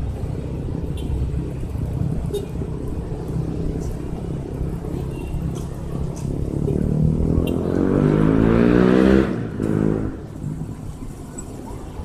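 An engine runs with a low rumble, then revs up with a rising pitch for a few seconds and cuts off abruptly about three quarters of the way through.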